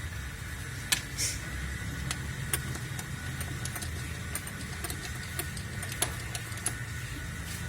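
Car engine idling in a low steady rumble, with scattered light clicks and taps and a brief hiss about a second in.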